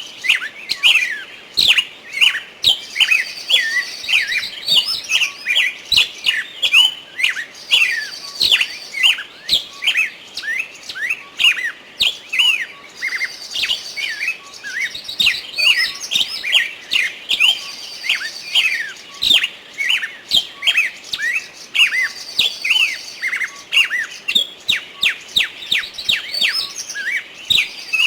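Small birds chirping busily: many quick chirps rising and falling in pitch, with a higher trilling phrase that comes back every four or five seconds.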